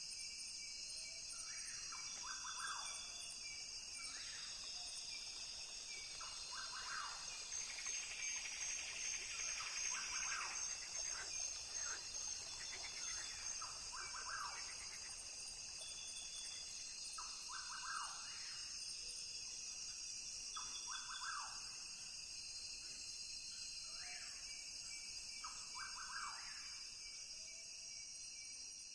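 Rainforest ambience: a steady, high-pitched chorus of insects, with short animal calls repeating every two to three seconds.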